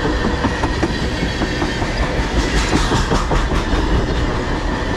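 Freight tank cars rolling steadily past, their steel wheels clicking and clanking over the rail joints under a continuous rumble.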